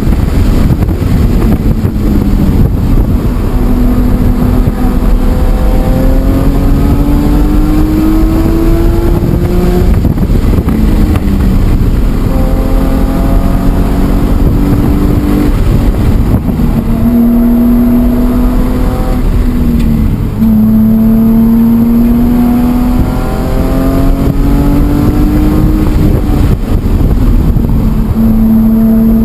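BMW E46 M3's inline-six engine under hard track driving. The pitch climbs again and again and drops abruptly every few seconds as it shifts gears, over a constant rumble of road and wind noise.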